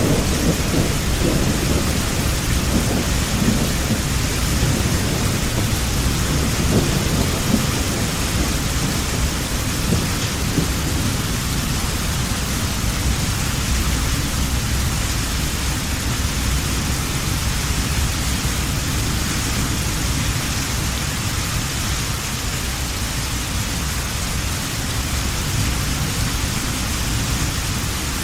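Heavy rain falling steadily, with a roll of thunder rumbling low that is strongest at the start and fades away over the first ten seconds or so.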